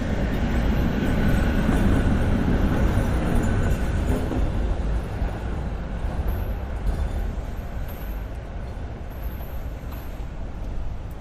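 A heavy vehicle passing close by on a city street: a low rumble that swells over the first couple of seconds and then slowly fades away.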